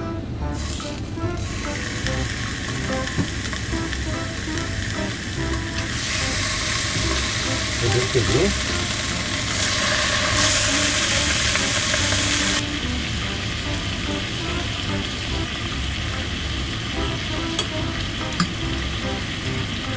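Pork belly slices, joined by aged kimchi, sizzling in a hot round grill pan. The sizzle grows louder about six seconds in and is loudest for about three seconds around ten seconds in, then settles to a steady frying hiss. Quiet background music runs underneath.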